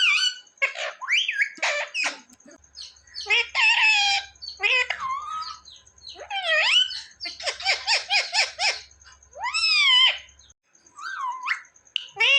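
Ringneck parrot giving a run of high, pitch-bending calls and chatter, with a fast rattling series of short notes a little past halfway.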